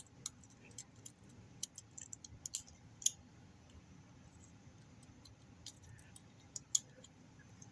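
Faint, scattered small clicks and taps as a CR2032 coin cell battery and the plastic parts of a car key fob are handled and pressed into place.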